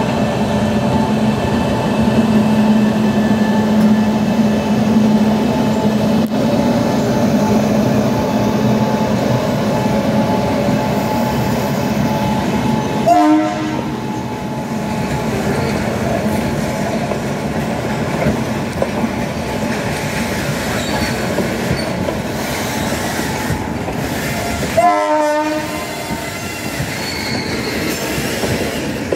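WAG-9 three-phase electric locomotive running past with a steady electric hum, followed by its freight train of covered box wagons rolling by with wheel clatter on the rails. Two short horn blasts sound, about 13 and 25 seconds in.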